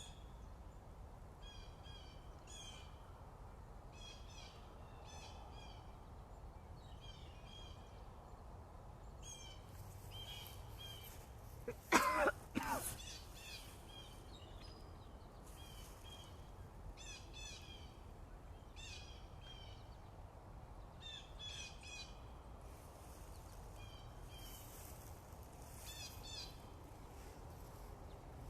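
Morning birdsong: small birds repeat short, high chirping phrases every second or two. About twelve seconds in, a much louder bird call sounds twice in quick succession.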